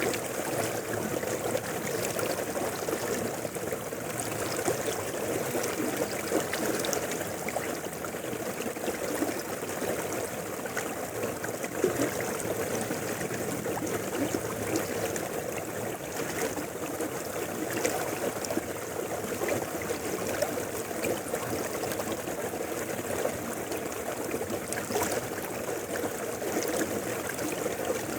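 River water flowing and splashing over rocks: a steady rushing with small trickles and splashes, most of its sound in the lower middle range.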